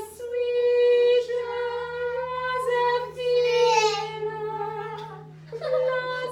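Children singing a line of a French song in long held notes, with a short break about five seconds in.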